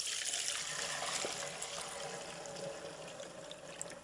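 Warmed diesel fuel being poured, a steady trickling pour that starts suddenly and tapers off toward the end. The diesel is summer grade, heated so it flows smoothly instead of gelling in the cold.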